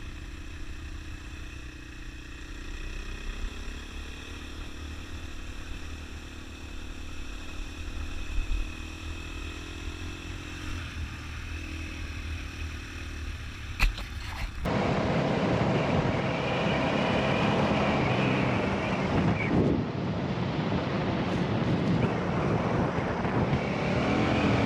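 Dirt bike engine running under way, heard from a camera mounted on the bike, its pitch rising and falling with the throttle. About fifteen seconds in the sound suddenly jumps louder, with more wind and road noise, just after a couple of sharp knocks. The engine note climbs near the end.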